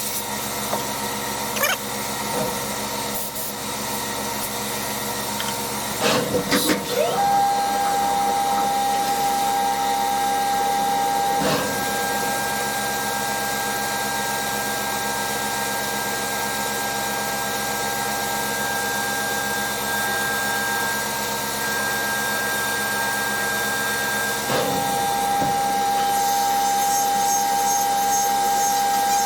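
DN Solutions SVM 4100 CNC vertical machining center running a cut: a steady machining noise, joined about seven seconds in by a steady high whine from the cut. A few brief knocks come through along the way.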